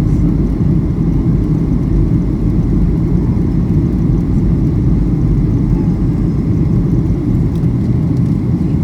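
Steady cabin noise inside a Boeing 737-800 airliner: a constant deep rumble of its CFM56-7B jet engines and the airflow over the fuselage.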